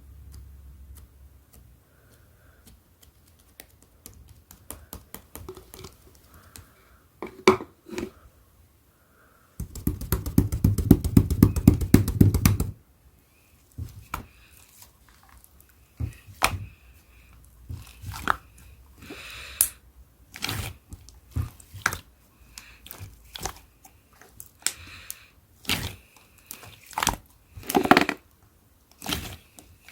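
Hands playing with a thick dark green slime, squishing and pressing it so that it gives sticky clicks and pops. About ten seconds in comes a fast run of clicks lasting about three seconds, then separate pops and squelches go on.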